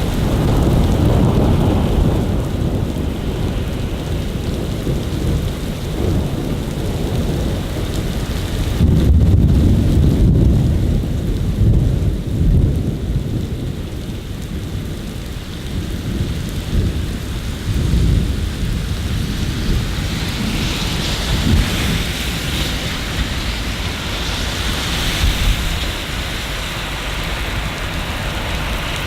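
Steady rain falling, with deep rolling rumbles of thunder near the start and again, loudest, about nine seconds in.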